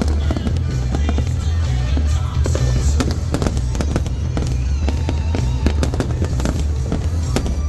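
Fireworks bursting and crackling in quick succession, many sharp bangs over a continuous low rumble, with music playing underneath.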